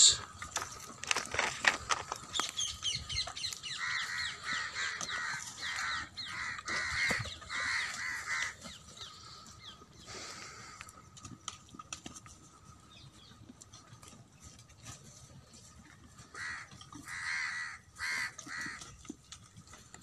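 A bird calling in runs of short, harsh calls at about two a second, a few seconds in and again near the end. Small clicks and rustles come from goats browsing on shrub twigs.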